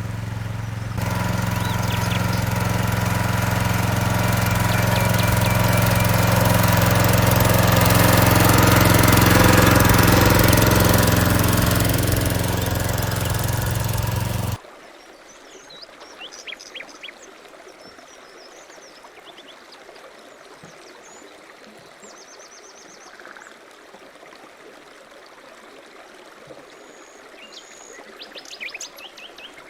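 A rototiller's small engine running steadily, swelling a little and then easing off, cut off abruptly about halfway through. Afterwards, birds chirping over a quiet background.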